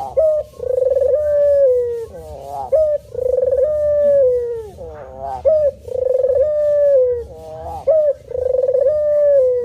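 Male puter (Barbary dove) cooing repeatedly. Each coo is a short rising note followed by a long, slowly falling note, about four coos in a row.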